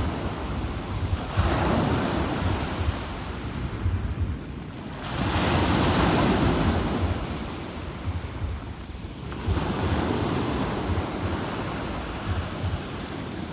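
Black Sea surf washing onto the shore in three swells about four seconds apart, with wind buffeting the microphone.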